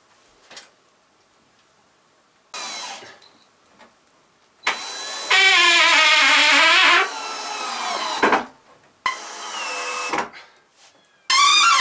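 Electric power saw cutting wood in four short runs. The motor's pitch sags under load and climbs back. The longest run lasts about three seconds, in the middle, and the last begins near the end.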